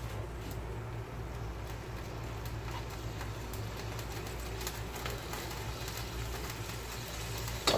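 Mutton liver cooking on a tawa with a steady sizzle, a spatula clicking against the iron pan now and then as it is stirred, and one sharp knock just before the end.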